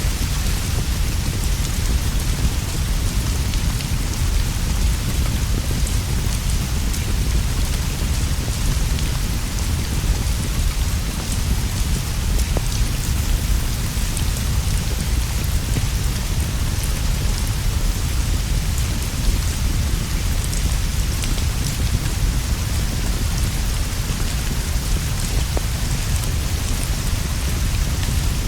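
Steady, even rainfall with a deep low rumble underneath and scattered faint clicks.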